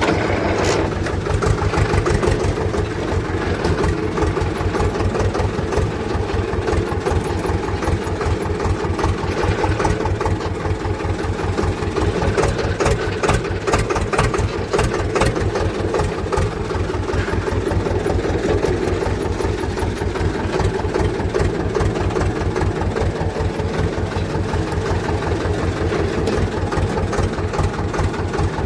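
Swaraj tractor's diesel engine running steadily with an even, rapid low pulse, slightly louder for a moment just after the start.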